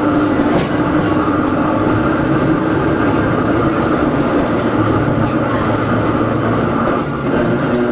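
Hakone Tozan Railway Moha 1 car No. 106 running, its nose-suspended SE121-A traction motors and gearing giving a steady whine over the rumble of wheels on rail. The sound drops briefly about seven seconds in.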